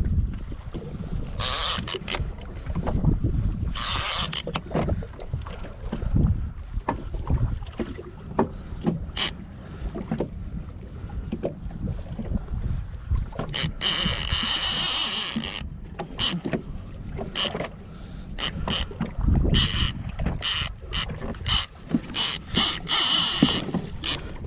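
Wind rumbling on the microphone aboard a small fishing boat at sea, with scattered sharp clicks and knocks, and a hiss lasting about two seconds a little past the middle.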